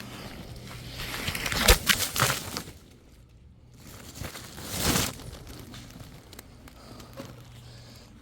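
Dry leaves and twigs crunching and rustling underfoot in two bursts, the first with a sharp snap or crack a little under two seconds in, the second around five seconds in.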